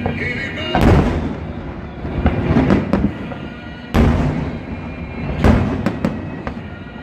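Fireworks shells bursting in loud booms, three big ones about a second, four seconds and five and a half seconds in, with smaller cracks between them. Music plays underneath.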